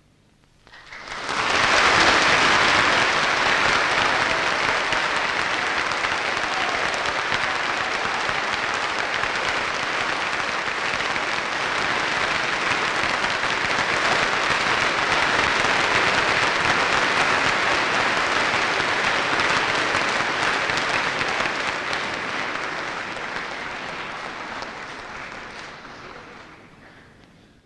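Concert hall audience applauding. The applause starts about a second in, swells quickly, holds steady, and dies away over the last few seconds.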